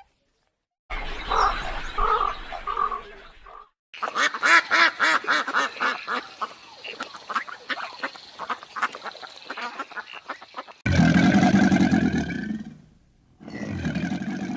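Ducks quacking in a string of short clips cut together: a brief run of calls, then a long stretch of rapid repeated quacks, then two longer, louder calls near the end.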